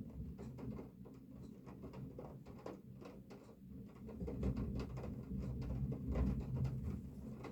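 Rain pattering, with irregular drops tapping close to the microphone over a low rumble that swells in the middle.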